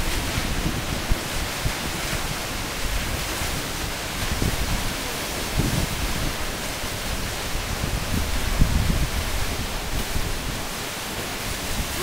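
Waterfall pouring, heard close up, with wind and spray buffeting the microphone in uneven low thumps.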